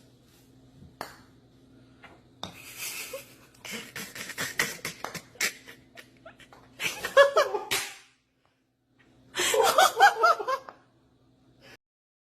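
People laughing in two short bursts, the second starting about two-thirds of the way in, after a stretch of rustling and light knocks.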